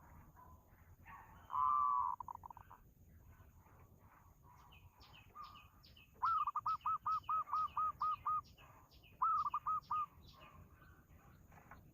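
A bird calling: one short loud call about one and a half seconds in, then a rapid run of about ten evenly spaced notes from about six seconds in and a shorter run of four or five near the end, with faint high chirps behind.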